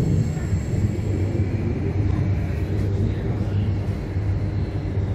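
Passenger train running along the rails, heard from inside the carriage: a steady low rumble of wheels and running gear as it approaches its terminus.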